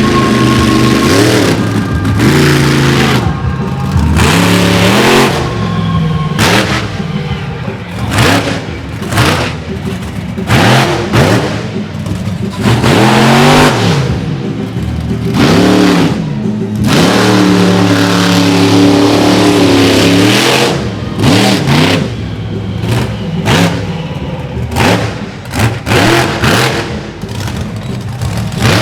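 Monster truck engine revving hard, its pitch climbing and falling over and over as the throttle is blipped and held, with several sharp lifts off the throttle. Music plays underneath.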